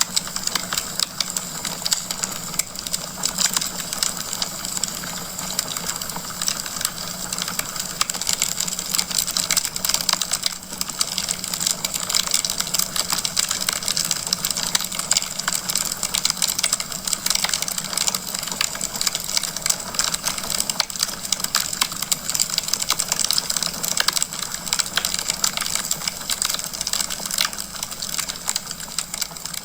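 Wood fire in a fireplace crackling: a dense, irregular run of small pops and snaps over a steady hiss.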